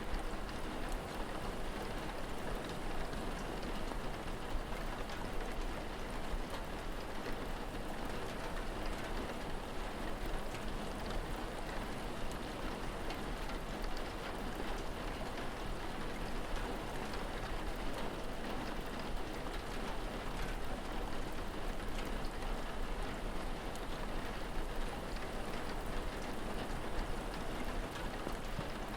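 Steady rain falling, an even hiss with the patter of individual drops, over a low steady hum.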